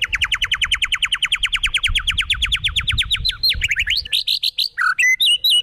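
A songbird singing: a long, fast trill of rapidly repeated notes that creeps slowly upward in pitch, breaking about four seconds in into varied chirps and whistled phrases.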